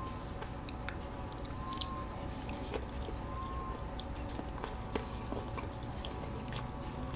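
Close-miked chewing of a walnut cake with red bean paste filling: soft mouth sounds with scattered short clicks and smacks, over a faint steady hum.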